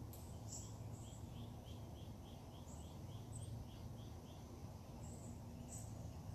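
Birds singing faintly: one bird repeats a single note about four times a second for around three seconds, with short high chirps from others scattered through, over a steady low background rumble.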